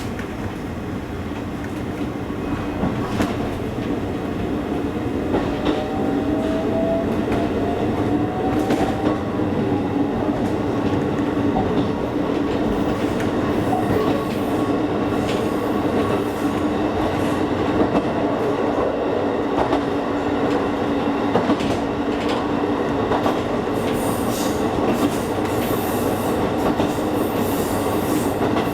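Kakogawa Line electric train running along the track, heard from on board: a steady rumble and hum with wheels clicking over rail joints. A faint rising whine starts about five seconds in as the train picks up a little speed.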